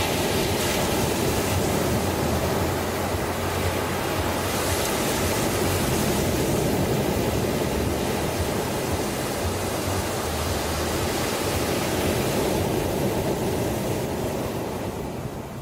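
Ocean surf: waves breaking and washing in a steady rush of noise, easing off near the end.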